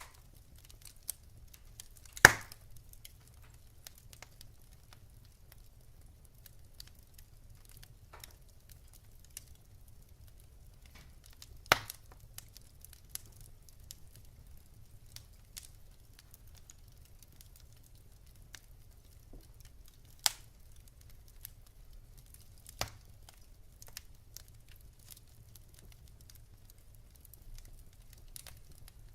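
Wood fire burning in a fireplace, logs crackling with scattered faint ticks and a few sharp, louder pops, the loudest a couple of seconds in and others around twelve, twenty and twenty-three seconds in, over a faint low rumble.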